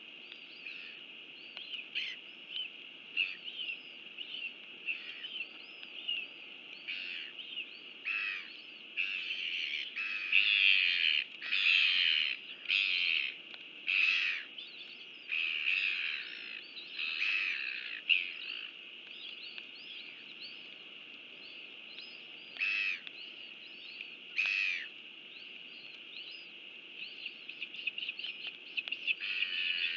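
Birds calling in a run of short, high chirps. The calls come thick and loud in the middle stretch and sparse at the start and end, over a steady high hiss.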